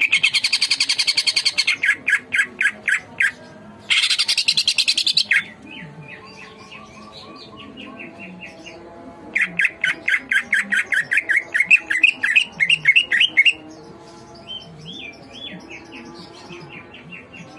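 Cucak ijo (green leafbird) singing loud, rapid strings of repeated sharp notes: one at the start, another about four seconds in, and a long one from about nine to thirteen seconds, with softer scattered chirps between and after.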